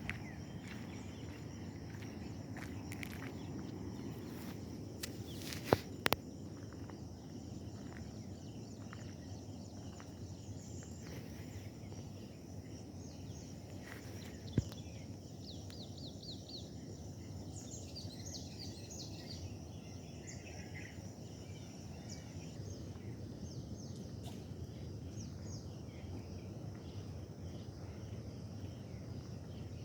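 Outdoor garden ambience: a steady low noise with birds chirping on and off, busiest through the middle stretch. A few sharp clicks stand out, two close together about six seconds in and one near halfway.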